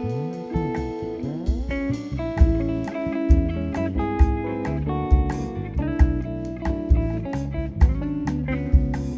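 Instrumental band music played live: guitar playing melody and chords over a double bass line, with regular percussion hits.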